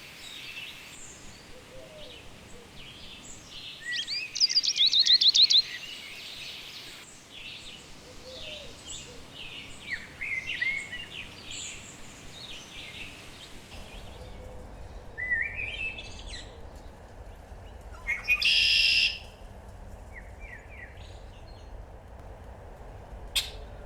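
Songbirds singing and calling, in several joined recordings: a fast run of high repeated chirps about four seconds in, scattered chirps and short trills through the middle, and a loud buzzy call lasting about a second three quarters of the way through.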